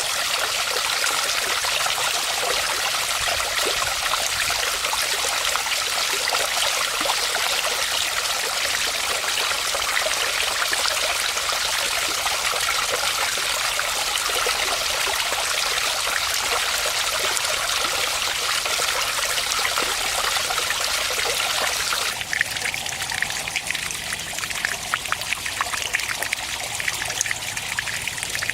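Water from a small handmade waterfall splashing steadily into a pond. About three quarters of the way through, the sound changes abruptly to a lighter trickle with more distinct individual splashes.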